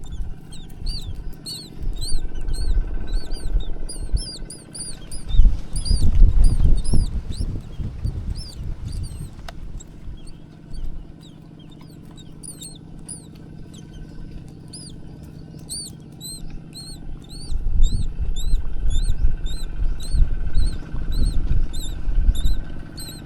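Baby birds chirping: a steady stream of short, high-pitched peeps, several a second. Under them, low rumbling noise swells twice, loudest about six seconds in.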